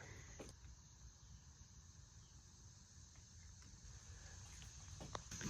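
Near silence: faint outdoor background with a thin, steady high-pitched hum and a couple of faint ticks near the end.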